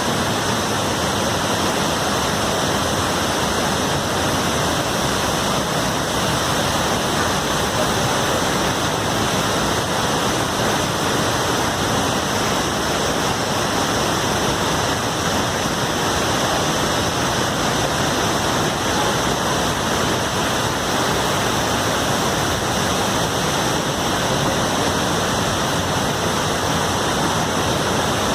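A large waterfall's constant, loud rush of falling water.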